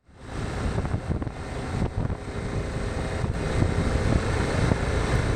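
BMW G650GS motorcycle riding along, its engine running under steady wind noise on the microphone.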